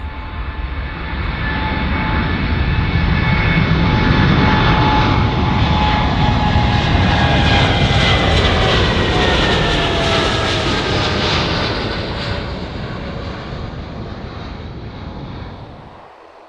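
Jet airliner passing close by: engine noise swells, stays loud for several seconds and then fades, with whining tones that fall in pitch as it goes past. The sound drops off suddenly near the end.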